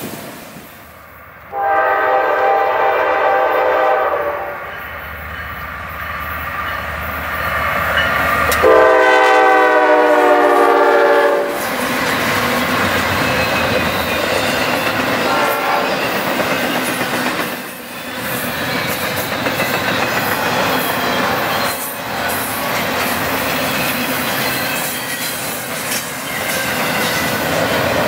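Diesel freight locomotive's air horn sounding two long chords, the second louder as the train nears, then a double-stack intermodal freight train rolling past with a steady rumble and clatter of wheels on rail.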